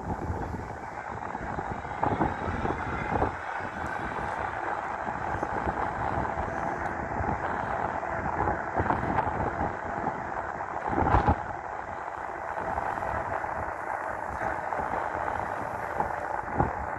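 Steady wind and riding noise on the microphone from a 5000-watt dual-motor electric mountain bike cruising under pedal assist, with a few sharp knocks from bumps, the loudest about eleven seconds in.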